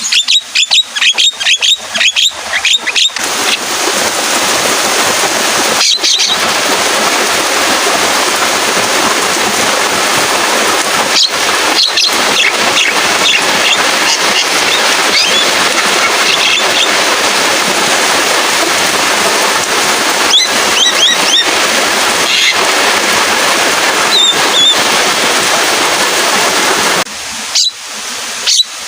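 Javan myna calling in sharp chattering chirps and clicks over steady rain. The rain starts about three seconds in and drops out near the end, leaving the bird's clicks alone.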